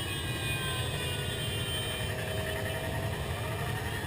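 Many motorcycle engines running together in a steady rumble, with several engine notes gliding slowly up and down in pitch as bikes pass and change speed.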